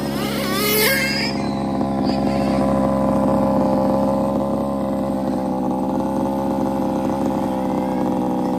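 Zenoah two-stroke petrol engine of an FG 1/5-scale RC car running at a steady speed, with a brief rise in pitch about a second in.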